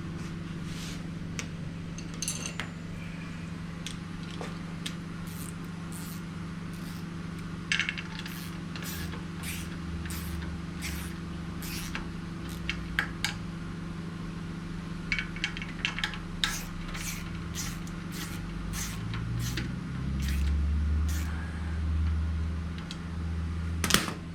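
Scattered light metallic clinks and ticks of nuts, washers and tools being handled while fastening an outboard lower unit, over a steady low hum.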